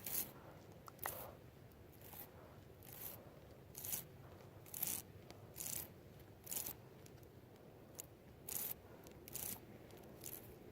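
Footsteps crunching in snow: a slow, even series of short scraping crunches, about one a second.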